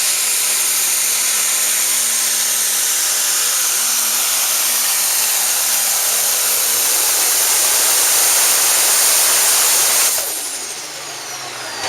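Turbocharged diesel pulling tractor at full throttle under load, a loud engine with a high-pitched turbo whine. About ten seconds in the throttle comes off: the sound drops and the turbo whine winds down.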